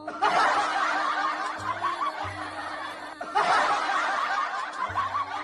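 A crowd laughing, like a canned laugh track, in two long waves with a short break about a third of the way through, over a soft bass line of music.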